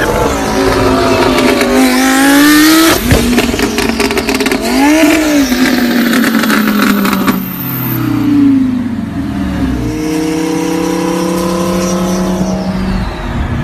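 Car engine through a loud exhaust, revving up and down. Rapid crackling pops come in the middle, then the engine note falls and holds fairly steady near the end.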